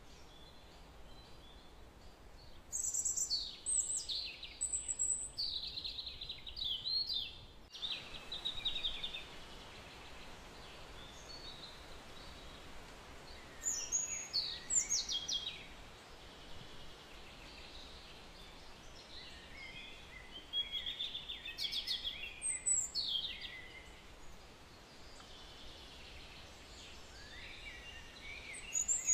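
Birds singing: phrases of high, sweeping chirps every several seconds over a steady hiss.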